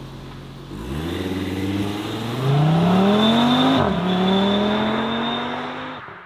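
A car engine accelerating away, rising in pitch, dropping sharply about four seconds in as it shifts up a gear, then rising again before the sound fades out.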